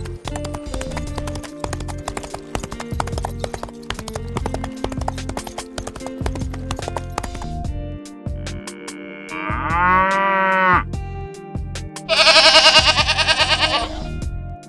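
Background music with many clicks, then two long, wavering animal calls near the end, the second one louder.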